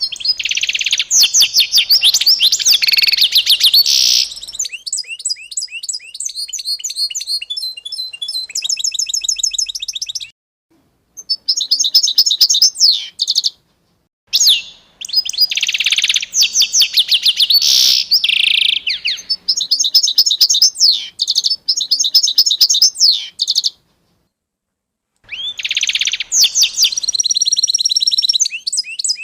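A songbird singing long phrases of rapid chirps and trills, broken by three short silences.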